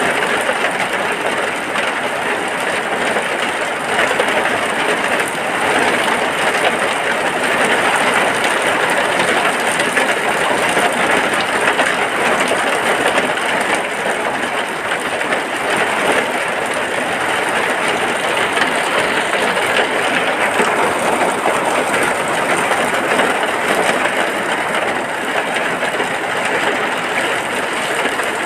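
Steady heavy rain heard from inside a hut: a dense, even hiss that doesn't let up.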